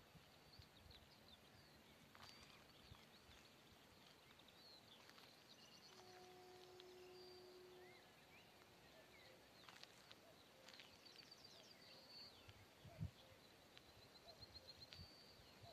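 Near-silent countryside quiet with faint birdsong: small birds chirping and trilling. A faint steady hum sounds for about two seconds midway.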